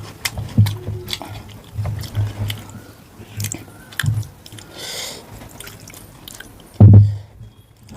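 Close-up eating sounds of a person eating mutton curry with rice: wet chewing and mouth clicks with soft squishy noises. One loud low thump comes about seven seconds in.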